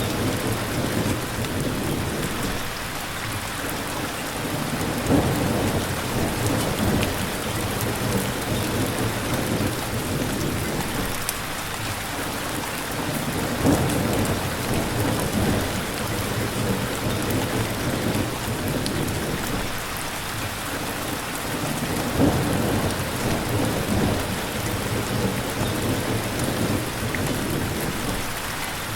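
Steady heavy rain hissing, with low rumbles of thunder swelling and fading every several seconds.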